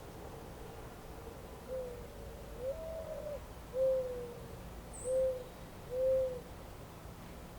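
A bird's low hooting call of five notes spread over about five seconds: a short note, a higher, longer one, one that slides down, then two short ones. A brief faint high chirp comes about five seconds in.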